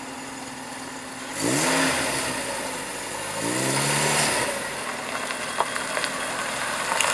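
Classic car engine idling, then revved twice, about a second and a half in and again near halfway, each rev climbing in pitch and dropping back to idle.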